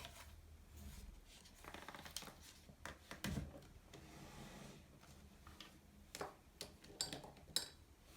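Scattered light clicks and knocks of small objects being handled, the loudest about three seconds in and a quick run of sharp clicks near the end, over a faint low hum.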